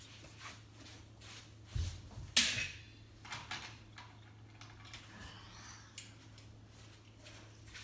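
Toy die-cast cars and track being handled: a dull thump, then half a second later a sharper knock, the loudest sound, followed by light scattered clicks and rustles.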